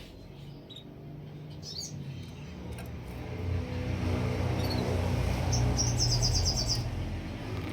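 A small songbird giving a few short chirps, then a fast high trill of rapidly repeated notes lasting about a second, over a low rumble that swells partway through.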